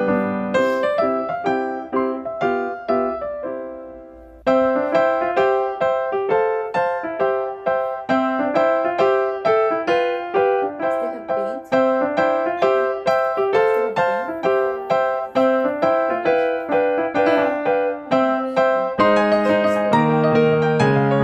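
Background piano music, a melody of struck notes; one phrase fades out about four seconds in and a new one starts abruptly just after.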